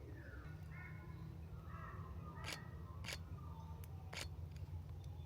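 Forest birds calling with short chirps and whistled notes, and three sharp clicks of a camera shutter in the second half, over a low steady rumble.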